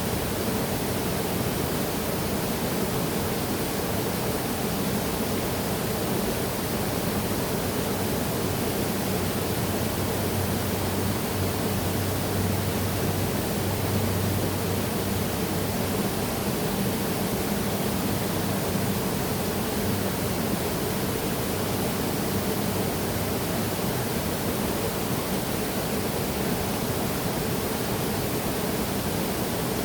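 Waterfall: water falling and splashing in a steady, unbroken rush with a low rumble underneath.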